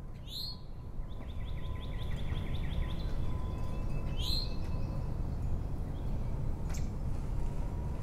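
Outdoor ambience of birds chirping over a steady low rumble: the same high, downward-sweeping call comes twice, about four seconds apart, with a quick trill of short notes in between, and a single short click late on.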